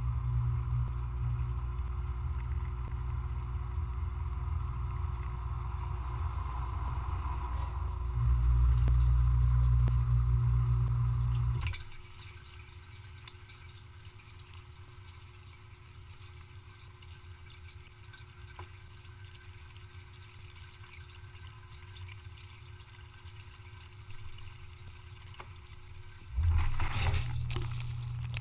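Dishwasher running: its pump hums steadily, louder for a few seconds, then cuts off about twelve seconds in, leaving water trickling and dripping inside, and the pump starts again near the end.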